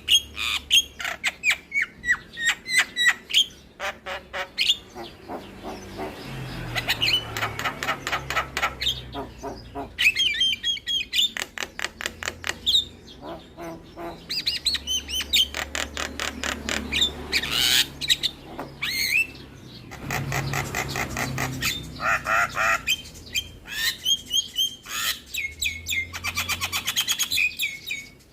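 Javan myna (jalak kebo) singing a long, varied song: fast chattering rattles, harsh squawks and short whistled phrases, broken by brief pauses.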